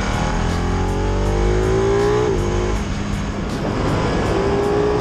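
Motorcycle engine accelerating hard, its pitch rising steadily for about two seconds and dropping sharply at an upshift, then climbing again near the end, over a steady wind rush.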